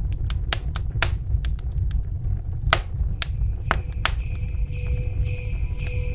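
Wood fire crackling, with irregular sharp pops over a steady low rumble. About three seconds in, jingling sleigh bells from Christmas music come in and ring on over the crackle.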